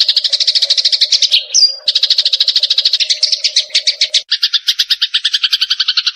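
Eurasian tree sparrows' fighting chatter: fast runs of sharp chirps, about ten a second. A brief rising squeak comes just before two seconds in, and a harsher run of chirps starts about four seconds in.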